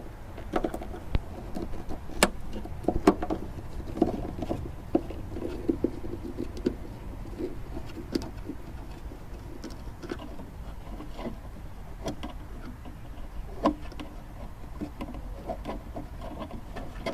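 A Phillips screwdriver working out a tail-light housing screw, with scattered small clicks and scrapes of metal on metal and on plastic over a low background rumble.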